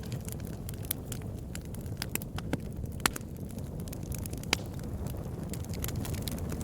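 Bonfire crackling: a steady low rumble of burning with scattered sharp pops of burning wood, the loudest about three seconds in and again about a second and a half later.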